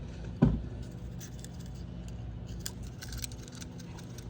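Small metal carburettor parts and a tool clinking and clicking while the carburettor is being taken apart, with one sharp knock about half a second in.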